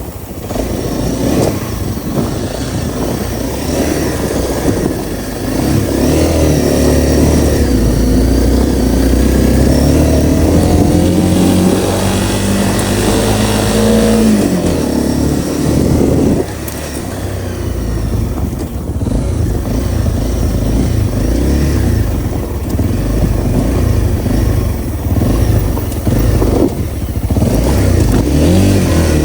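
Honda CRF250L's single-cylinder engine running under way. Its pitch climbs steadily as it accelerates through the middle, then drops off abruptly about sixteen seconds in and runs on at a steadier pitch.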